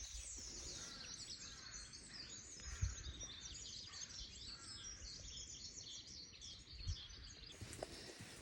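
Faint chorus of small songbirds chirping and twittering, many quick high calls overlapping, over a low wind rumble, with a couple of soft thumps.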